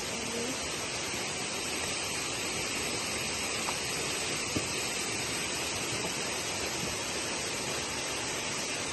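Steady rushing of a waterfall, with two faint knocks near the middle.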